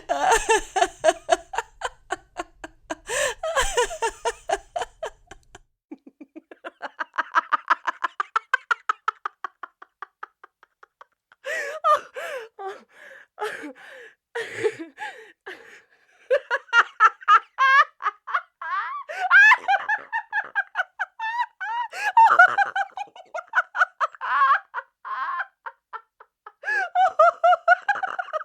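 Young women laughing in a series of separate bursts, from short giggles to a long run of rhythmic ha-ha pulses, with brief pauses between takes.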